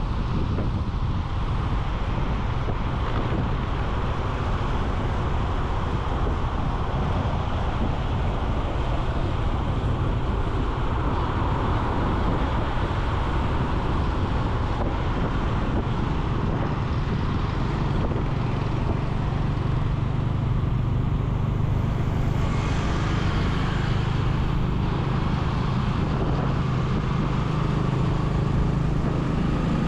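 Motorcycle riding through city traffic: a steady rush of wind and road noise mixed with engine sound. About two-thirds of the way in, a steady engine hum grows more prominent, with a brief brighter swell of noise soon after.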